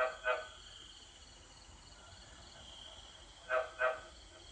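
Frogs croaking: two short calls right at the start and two more about three and a half seconds in, over a steady, pulsing high insect trill.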